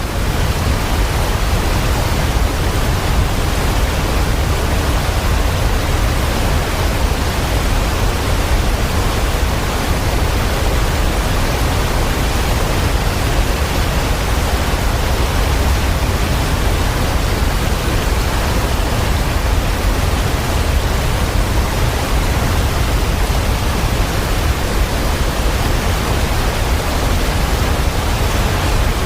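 Steady, unbroken rushing of water, an even hiss with a deep low rumble underneath and no separate drops or events.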